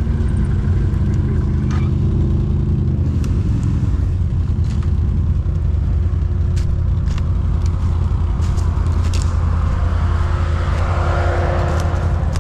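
ATV engine running steadily with a low, even hum, with a few sharp clicks through the middle. A rougher hiss builds up near the end.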